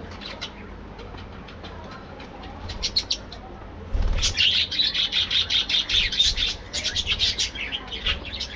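A flock of budgerigars chirping and chattering: scattered soft chirps at first, then about four seconds in a loud burst of rapid chirping that lasts about three seconds before thinning out.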